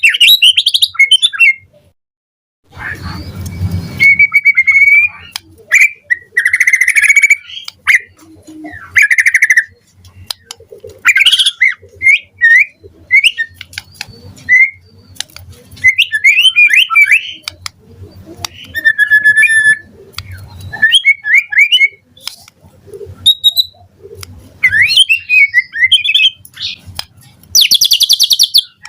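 White-rumped shama singing a varied song of short whistled phrases, pitch glides and rapid trills, separated by brief pauses. About three seconds in there is a short harsh, noisy burst.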